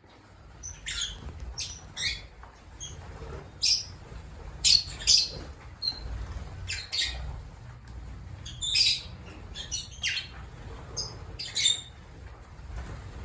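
Lovebirds calling: many short, shrill, high-pitched chirps and squawks at irregular intervals, some coming in quick pairs.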